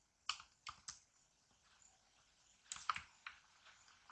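Faint computer keyboard keystrokes while code is being typed: three separate key presses in the first second, then a quick run of several keys about three seconds in.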